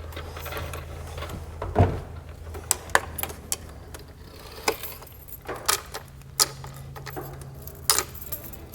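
Scattered metallic clicks, clinks and knocks from hand tools and loose parts while the windshield is worked out of a Humvee, over a steady low hum.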